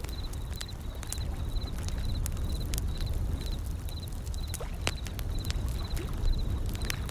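Wood fire crackling with frequent sharp pops over the steady low rumble of ocean waves. A faint high triple chirp repeats about twice a second throughout.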